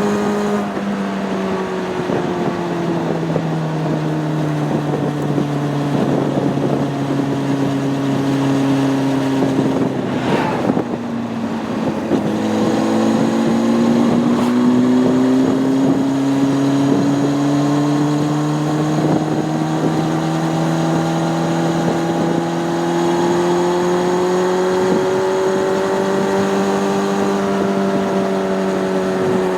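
Honda CB600F Hornet's inline-four engine heard from on board while riding, its pitch easing down over the first ten seconds, a short break near eleven seconds, then rising and holding steady before easing off again near the end. Wind rushes over the microphone throughout.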